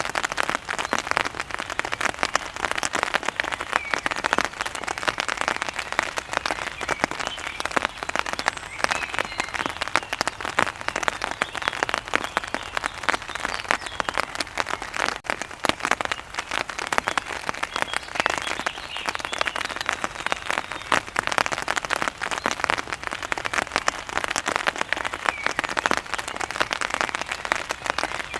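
Steady heavy rain, a dense, even spatter of drops hitting a surface.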